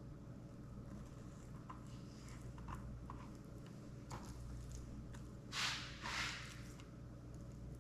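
Knife cutting a fish fillet into small pieces on a cutting board: scattered light taps and clicks, then two short scraping swishes in quick succession a little past halfway. A steady low room hum sits underneath.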